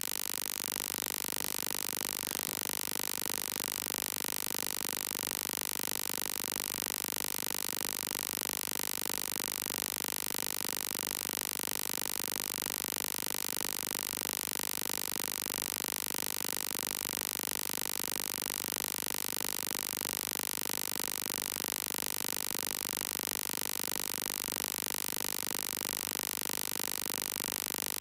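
Steady electronic buzz with a fast, even pulse that never changes, cutting in abruptly just before: a digital audio glitch on a phone livestream, which the streamer puts down to poor mobile signal.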